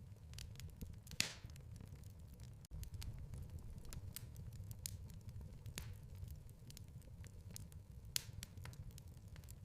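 Wood fire in a fireplace crackling over a low steady rumble, with scattered small snaps and a few louder pops, one about a second in.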